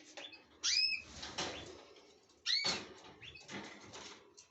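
Small cage birds fluttering their wings in a cage, with two short chirps about two seconds apart.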